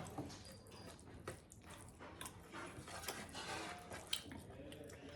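A person chewing and eating pork close to the microphone: faint, uneven clicks and smacks of the mouth.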